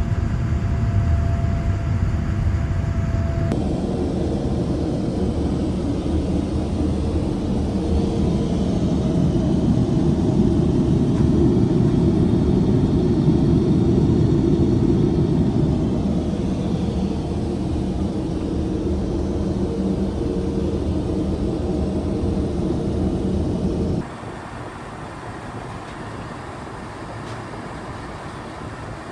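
Boeing 787-9 heard from inside the cabin: a steady low rumble of engines and airflow. The sound changes abruptly a few seconds in, swells slightly in the middle, then drops to a quieter hum near the end.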